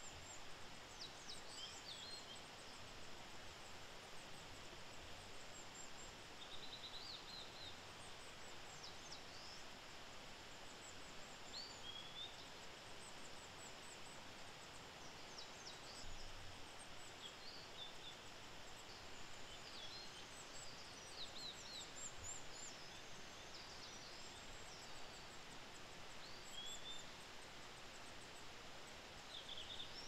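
Faint, short high chirps and calls of small birds, scattered throughout over a steady low hiss.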